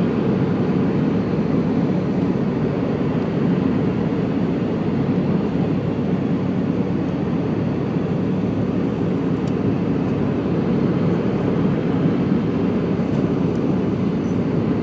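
Steady engine and airflow noise inside the cabin of an Airbus A320 climbing after takeoff, a dull even rumble that holds level throughout.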